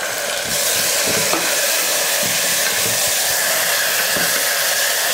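Chopped tomato and sliced onion sizzling in hot oil in a pressure cooker while a wooden spatula stirs them: a steady hiss that gets louder about half a second in, with a few faint knocks of the spatula.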